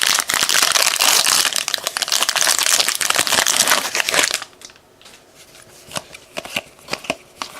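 Foil wrapper of a baseball card pack crinkling loudly as it is torn open and crumpled, for about four seconds. Then it drops to soft, scattered clicks of the cards being handled.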